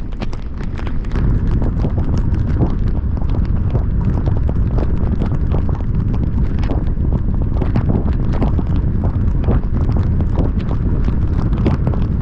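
Heavy rain striking a moving car and camera as dense, irregular taps of drops, over a loud, steady low rumble of the car driving.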